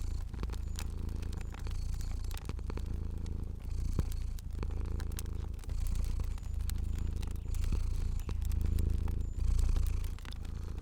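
A cat purring steadily in low waves that swell every second or two, over a crackling fire with scattered small pops.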